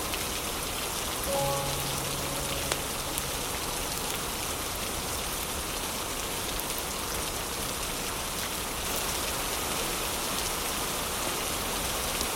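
Steady rain, an even hiss, with a few faint clicks. A couple of soft held instrumental notes sound about a second and a half in.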